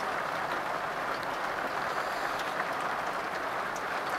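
Steady rain from a thunderstorm, an even hiss heard from inside a motorhome.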